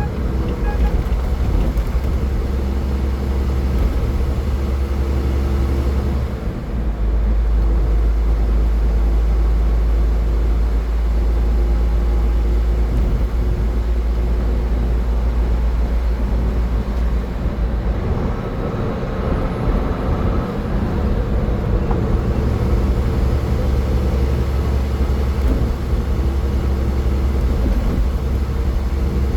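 A car driving at highway speed: a steady low rumble of tyre and engine noise that shifts in tone about six seconds in and again around eighteen seconds in.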